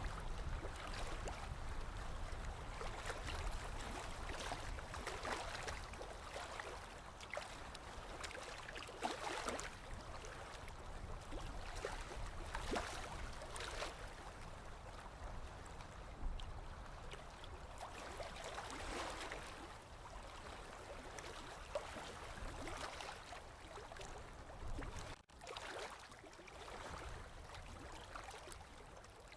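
Sea water washing and lapping against the shore, with gurgling and trickling, swelling up every few seconds. There is a brief dropout about 25 seconds in.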